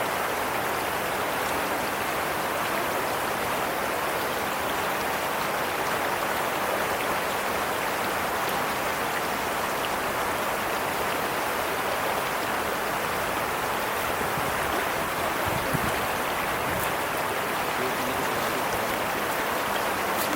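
Steady rushing noise of water, with a faint steady hum underneath.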